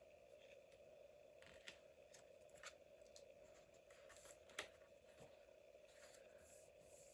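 Near silence with faint paper-crafting handling noises: a few soft paper rustles and small clicks over a faint steady hum, the sharpest click about two-thirds of the way through.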